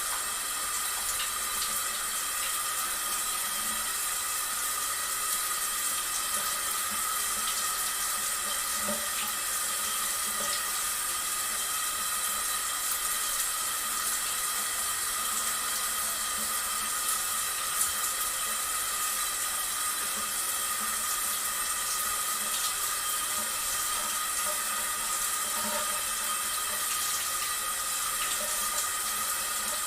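Water running and splashing steadily, as from a fountain.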